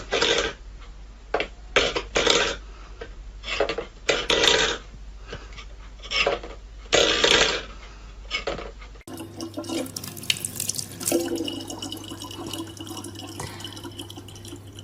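Water splashing in irregular bursts, then a tap running steadily with a low hum underneath.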